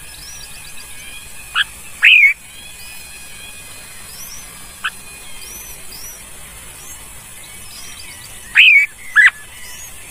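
Bird calls: faint short high chirps repeating throughout, with loud, brief calls sweeping up in pitch about two seconds in and again as a pair near the end.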